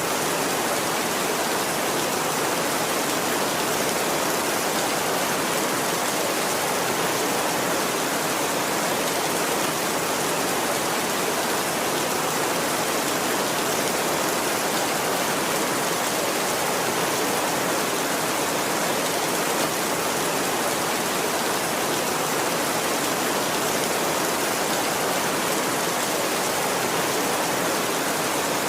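Steady heavy rain, an even, unbroken hiss with no thunderclaps.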